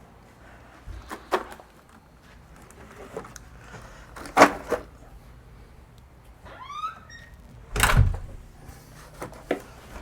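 Scattered clacks and knocks of tools and light parts being handled and set down on a workbench, the sharpest about halfway through. A short squeak rising in pitch comes near seven seconds in, then a heavier thump.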